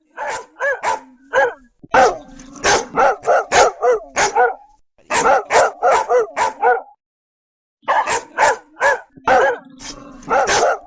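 A large dog barking in quick, repeated barks, about two to three a second. The barking stops dead for about a second near the end, then resumes.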